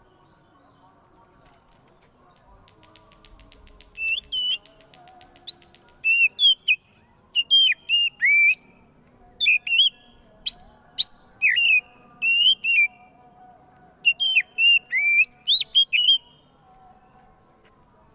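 Oriental magpie-robin (kacer) singing a loud, busy song of short, sharp whistled notes that swoop up and down, in quick bursts. The song starts about four seconds in and stops a couple of seconds before the end. A fast, faint ticking comes just before the song.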